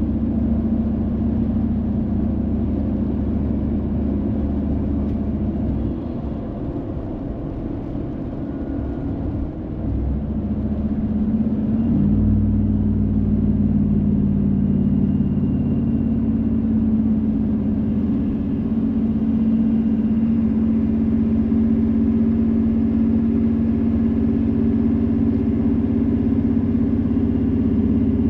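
Car being driven, engine hum with road noise. It eases off for a few seconds partway through, then picks up again about twelve seconds in and holds a steady hum.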